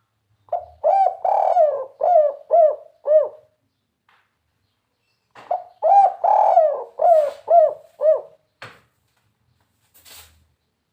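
Spotted dove (tekukur) cooing in the three-note 'kuk 3' style: two phrases a couple of seconds apart, each a short lead-in note, a longer coo, then a few short clipped coos.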